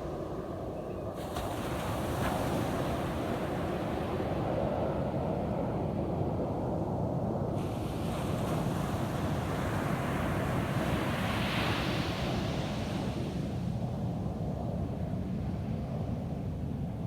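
Ocean surf washing onto a beach, a steady noisy wash over a low rumble of wind on the microphone. A wave surges and breaks a little past the middle, then fades.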